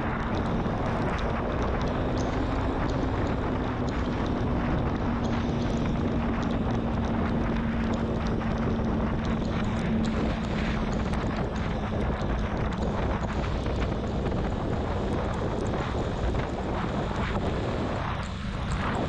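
Honda CB650R's inline-four engine running at a steady cruise under heavy wind rush on the microphone while riding. The engine's steady note fades back into the wind about two-thirds of the way through.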